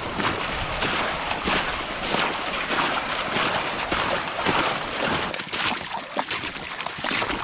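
Footsteps splashing through wet slush, about two steps a second, over a steady wet hiss from a sled dragged behind.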